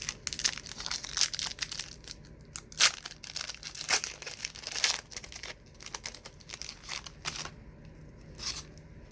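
A trading-card wax pack being torn open, its wrapper crackling and crinkling densely for the first five seconds or so, then in scattered crinkles.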